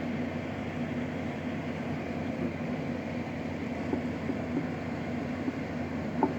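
LG air conditioner running steadily: an even rush of airflow with a steady low hum. A short click near the end.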